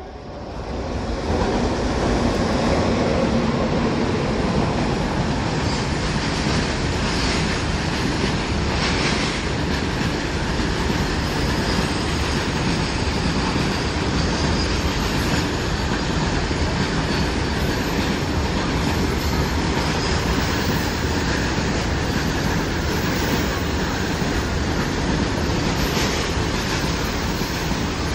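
A freight train of loaded covered wagons hauled by a WAG-9HC electric locomotive running past on the main line. The rumble and clatter of the wheels on the rails rise over the first two seconds as the train arrives, then hold steady as the wagons roll by.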